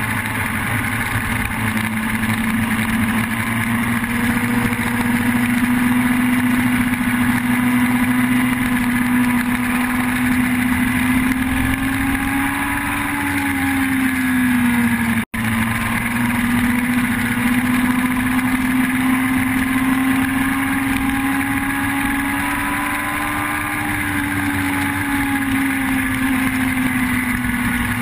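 Yamaha R1 inline-four motorcycle engine running at steady revs, its note slowly rising and falling twice. The sound cuts out for an instant about halfway through.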